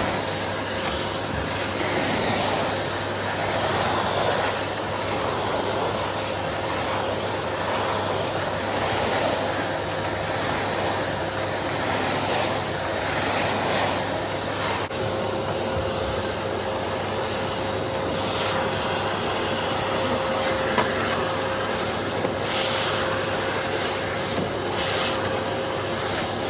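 Vacuum cleaner running steadily, its head worked back and forth over a carpet, with a constant motor hum under the swishing.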